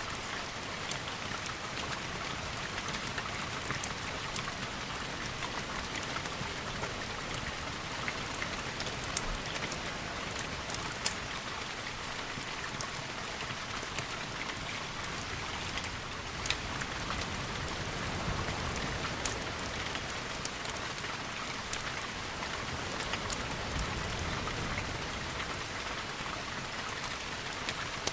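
Steady rain ambience: a continuous hiss of rainfall with many scattered sharp ticks and pops throughout.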